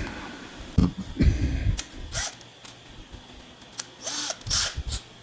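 Handling noise from a workbench: scattered clicks and knocks as tools and an aluminium plate are handled, with a few short noisy bursts about two seconds in and again near the end.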